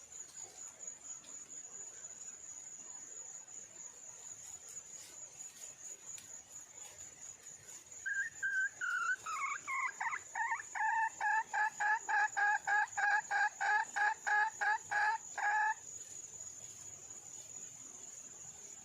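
Wild red junglefowl hen calling to attract a male: after a few gliding notes, a fast run of evenly repeated clucking notes, about three or four a second, that stops abruptly. A steady high insect buzz goes on underneath throughout.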